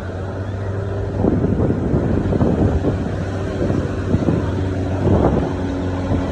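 A steady low engine drone runs throughout, with gusts of wind buffeting the microphone.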